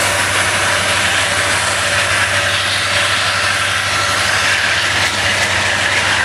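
Coal train passing: a loud, steady rumble and rush of the train on the rails, with a low diesel engine hum underneath.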